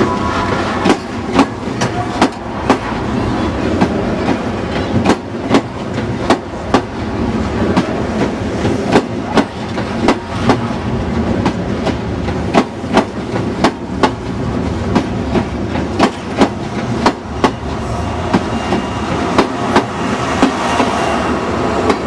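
Passenger train running slowly past at close range: its wheels click sharply over rail joints about twice a second in a clickety-clack, over a continuous rumble.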